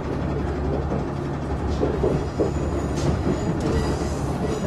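Inside a KiHa 110 series diesel railcar on the move: the engine's steady low hum and the wheels running on the rails, with a couple of short clanks.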